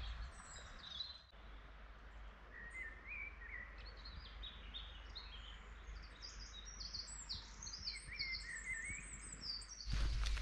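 Several songbirds singing in the open: repeated high chirping notes and short warbled phrases from more than one bird. Just before the end, wind on the microphone and footsteps cut in suddenly.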